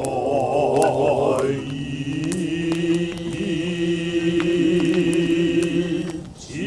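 Noh chanting (utai) by a male voice: a low, drawn-out chant whose pitch wavers slowly, with a high steady tone held above it from about a second and a half in. The chant breaks off briefly near the end.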